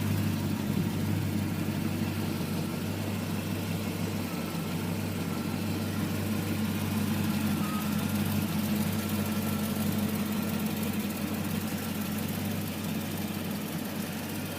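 Morgan Plus 8's Rover V8 engine idling steadily.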